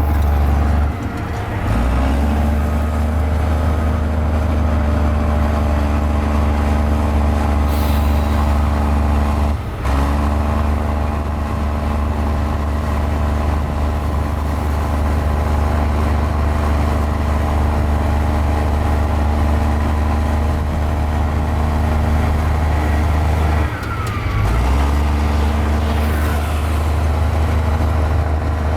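Mini Komatsu bulldozer's diesel engine running steadily while working. Its note dips briefly about a second in, near ten seconds and again around 24 seconds.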